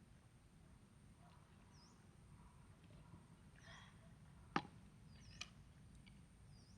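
Faint, short high bird chirps repeating every second or two over a low steady rumble. A sharp click about four and a half seconds in is the loudest sound, with a smaller click a second later.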